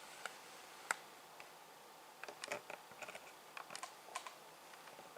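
Faint computer keyboard typing: scattered key clicks, single at first, then a few short clusters of taps from about two seconds in.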